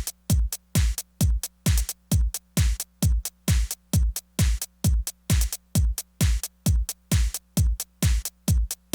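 Tech house drum-machine beat played on a Korg Electribe Sampler ES2: a steady four-on-the-floor kick at about two beats a second, each kick dropping in pitch, with short bright hat-like hits between the kicks over a low steady drone.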